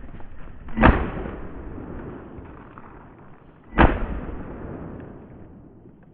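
Two shotgun shots about three seconds apart, each followed by a long fading rumble of echo.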